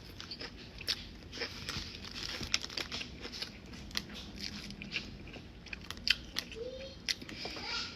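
Close-up chewing and crunching of a toasted sub sandwich, with many small irregular crunches. A brief closed-mouth "mm" comes about six and a half seconds in.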